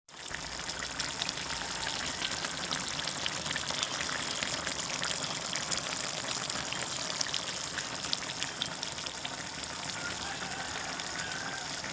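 Food frying in a hot pan: a steady sizzle with many small crackles and pops throughout.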